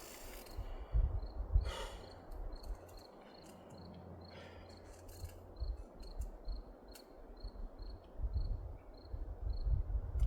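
A cricket chirping in an even rhythm, a few short high chirps a second, with a few breaths from someone resting.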